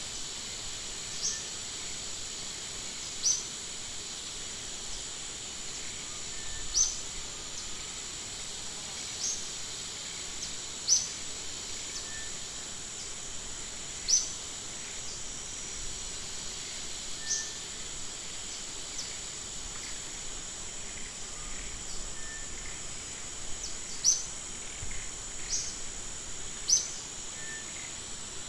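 Natural outdoor ambience: a steady high-pitched insect drone, with short high chirps every second or few.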